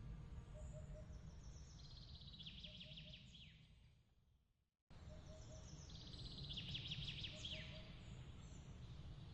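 Faint bird chirps and quick descending trills over a steady low rumble, with short soft tones repeating every second or so. The whole bed fades away about four seconds in and cuts back in abruptly a moment later.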